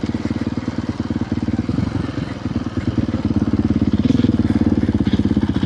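Dirt bike engine running at a low, steady idle with a fast, even pulse, getting a little louder about four seconds in.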